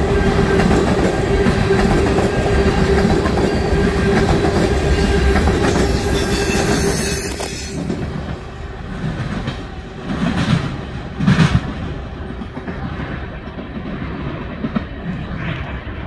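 Freight train tank cars rolling past on the rails, their wheels clacking over the rail joints with a steady hum and a brief high wheel squeal. About halfway the last car goes by and the sound drops to the softer rumble of the receding train, with a couple of sharp clacks.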